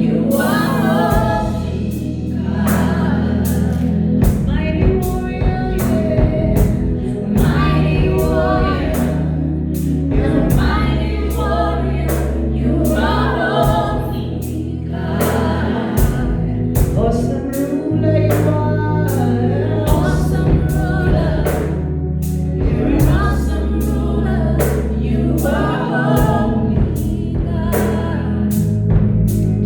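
Gospel worship song: a choir of voices singing together over a live band, with a steady drum beat and a bass line that moves every couple of seconds.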